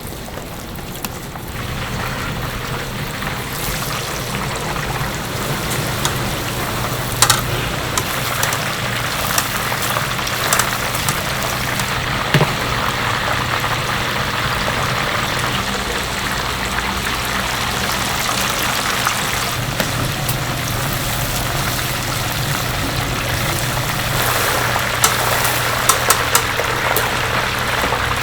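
Steady sizzle of chicken deep-frying in hot oil over a low steady hum, with a few sharp clicks and ticks.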